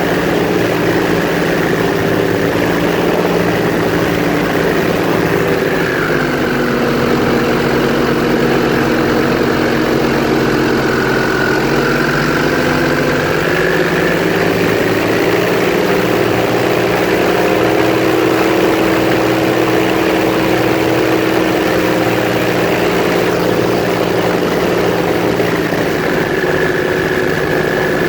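Airboat engine and propeller running steadily and loudly, with small shifts in engine speed a few times.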